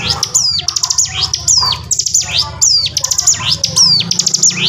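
Ciblek gunung (a prinia) singing loudly and persistently in the rapid 'ngebren' style. Fast runs of sharp, high, clicking notes alternate with falling whistled sweeps, repeating a little faster than once a second, over a low steady hum.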